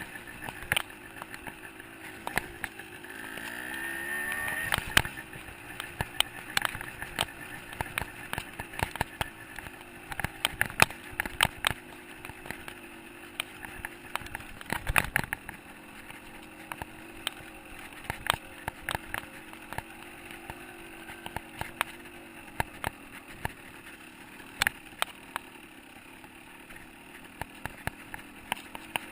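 125 cc two-stroke dirt bike engine running while riding, with many sharp knocks and rattles throughout. It revs up briefly about three to five seconds in.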